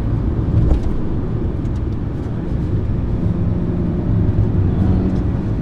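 Maserati Ghibli Hybrid's four-cylinder engine and road noise heard from inside the cabin while driving: a steady low rumble.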